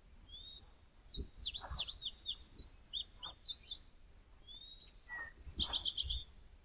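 A songbird singing two quick, varied phrases of high chirping notes, the second ending in a rapid run of repeated notes, with a few soft low thumps beneath.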